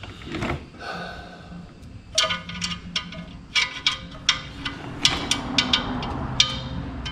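Hand tools and bolts clinking on metal during work on the torque converter bolts: a string of sharp, irregular metallic clinks and taps, each ringing briefly, coming in clusters through the middle and latter part.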